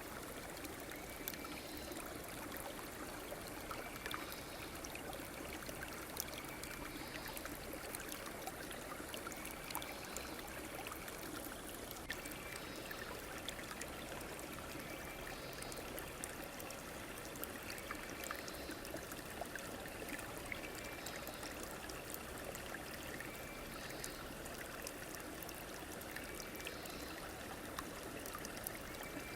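River water flowing and trickling steadily. A short chirping call repeats every two to three seconds over it.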